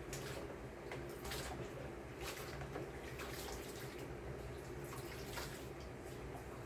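Quiet kitchen handling noises: scattered light taps and clicks at irregular moments over a steady low hum.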